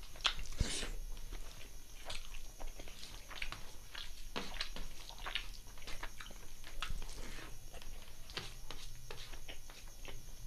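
Close-miked eating of chicken liver and gizzard curry with rice: chewing and wet mouth smacks, heard as a steady run of irregular short clicks, with a sharper smack about half a second in.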